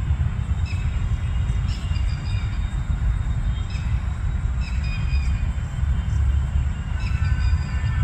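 A loud steady low rumble, with short high bird chirps coming every second or so, some in quick pairs.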